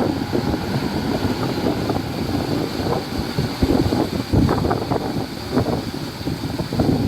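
Heavy diesel earthmoving machinery running with an uneven rumble, with wind buffeting the microphone.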